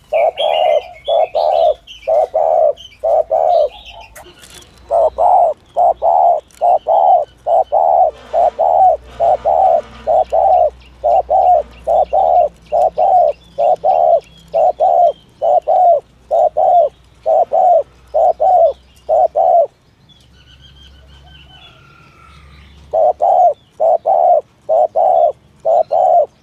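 Spotted dove cooing in a rapid, insistent series of short low coos, a bit under two a second, broken by a short pause about four seconds in and a longer one near the end. Faint chirps from other small birds come through the gaps. This is the 'thổ thúc gù' cooing used as a lure call for trapping doves.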